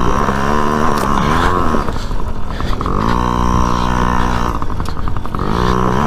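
Dirt bike engine revving, its pitch climbing and dropping several times as the throttle is opened and closed.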